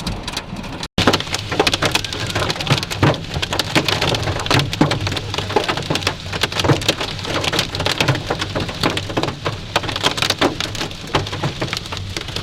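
Heavy rain mixed with hail pelting a vehicle's roof and windshield: a dense, continuous patter of sharp hits, with a steady low rumble of the car underneath. The sound cuts out for an instant about a second in.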